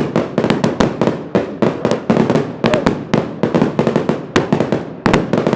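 Fireworks crackling: dense volleys of sharp cracks and pops, coming in repeated bursts of about half a second to a second with short breaks between them.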